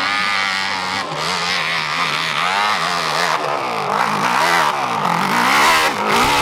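Dirt bike engine revving hard, its pitch rising and falling over and over as the throttle is worked.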